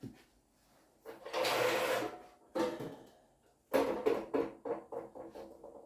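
Handling noise in a small room: a scraping burst about a second in, another shorter one, then a sharp clatter followed by a run of quick rattles that die away.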